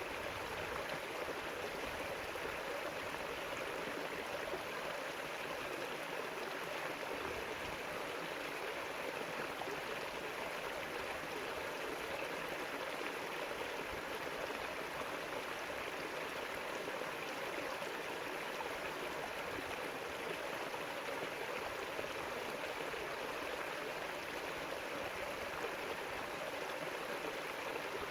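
A river's flowing water rushing and gurgling steadily, with no breaks or single events.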